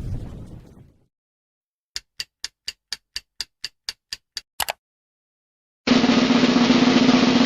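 A string of edited sound effects. A boom fades out, then come about a dozen quick, evenly spaced drum-like taps at about four a second. After a short gap, a loud, steady, noisy sound with a low hum in it starts suddenly.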